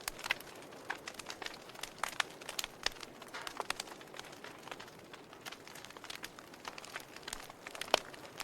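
Wood fire in a fireplace crackling: irregular sharp pops and snaps over a faint steady hiss, with one louder pop near the end.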